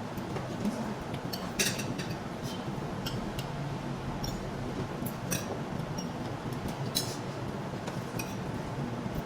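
Cutlery clinking against plates while people eat, in light clinks that come irregularly every second or so over a steady background hum of the room.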